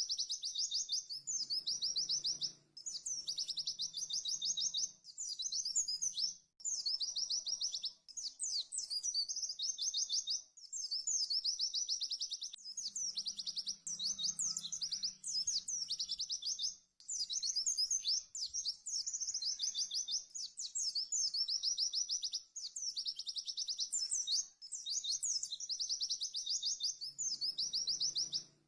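White-eye (pleci) singing a fast, rapid-fire trilling song in high-pitched phrases of about two seconds each, repeated over and over with brief breaks between them.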